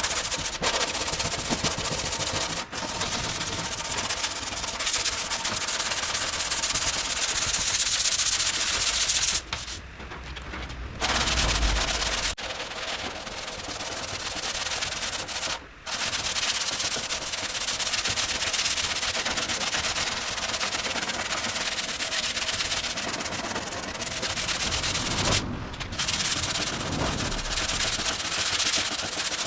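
Hand sanding block rubbing rapidly back and forth over cured body filler on a car's steel front wing, blocking the filler down level with the panel, with a few short pauses between runs of strokes.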